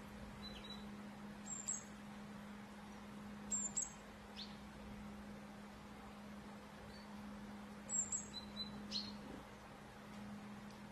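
Small wild birds chirping now and then: a few brief, very high double notes and a couple of short downward-sweeping calls, over a steady low hum.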